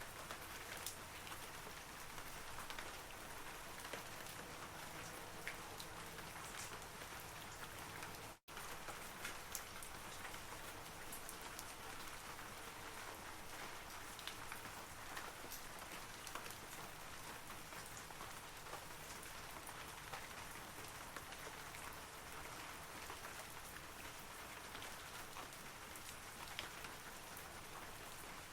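Steady rain falling on forest trees, an even hiss with many individual drops ticking. The sound cuts out for a split second about eight seconds in, then resumes unchanged.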